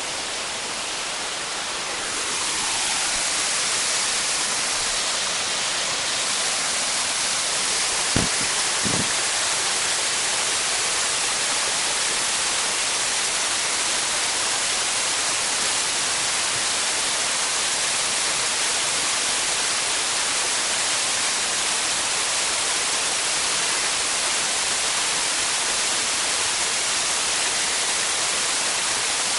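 A waterfall: a steady rush of falling water that grows louder about two seconds in, with two soft thumps around eight seconds in.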